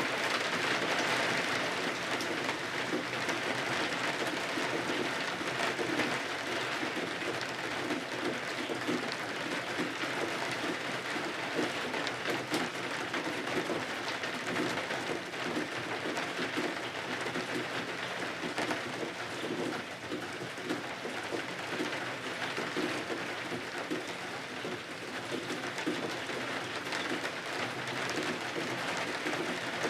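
Steady rain falling, a continuous even hiss of rain on the windows and roof.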